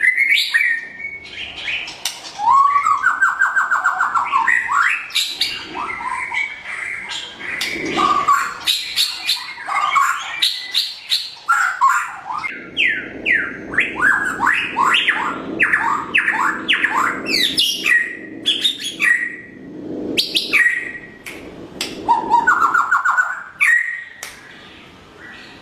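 White-rumped shama (murai batu) of the pied 'blorok' variety singing a continuous, varied song. It mixes clear whistles with fast rattling trills, twice, and a long run of quick sweeping notes in the middle.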